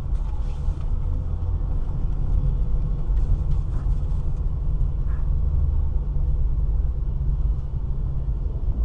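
2007 Ford Mustang GT's 4.6-litre V8 with a Corsa exhaust, a steady low rumble as the car is driven.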